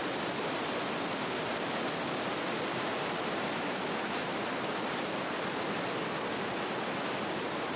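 Steady rushing of the Krimml Waterfalls, an even noise of falling water with no breaks.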